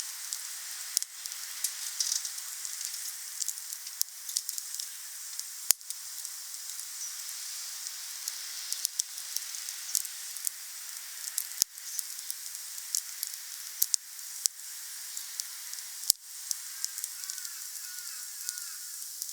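Wood fire burning: a steady hiss with frequent small crackles and several louder, sharp pops of burning wood scattered through.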